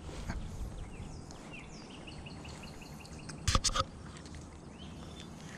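A bird calling a quick run of repeated short chirps, then two loud sharp knocks close together about three and a half seconds in from handling the spinning rod and reel.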